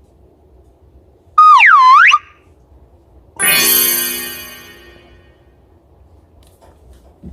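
Added cartoon-style sound effects: a short swooping electronic tone that dips and rises back, then a sudden struck, chime-like sound that rings and fades over about a second and a half.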